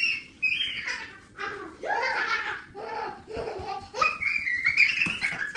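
A young child's voice babbling, with high-pitched squeals about half a second in and again from about four seconds in.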